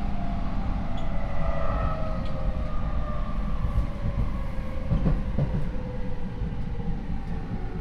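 Rinkai Line 70-000 series electric train, heard from inside the car, with its Mitsubishi IGBT inverter and MT73 traction motors whining in several tones that slide steadily down in pitch over the rumble of the wheels. The train is slowing as it approaches a station. This car's motor sound is unusually loud.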